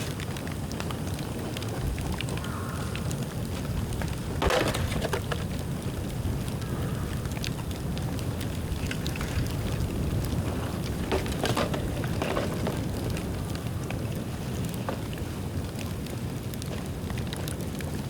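Dry bamboo burning in an open bonfire: a steady rush of flame with scattered crackles and pops, the loudest about four and a half seconds in.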